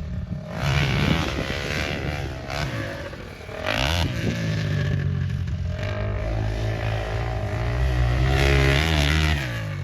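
KTM 450 SX quad's single-cylinder four-stroke engine running hard, its revs rising and falling repeatedly, with loud surges about a second in, around four seconds in, and again near the end.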